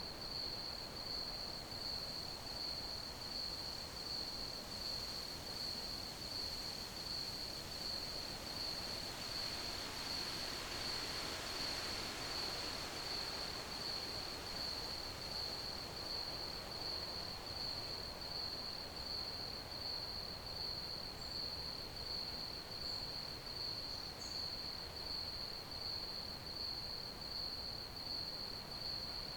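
Crickets chirping in a steady, even rhythm, one high-pitched chirp repeating over and over, above a soft background hiss that swells briefly around the middle.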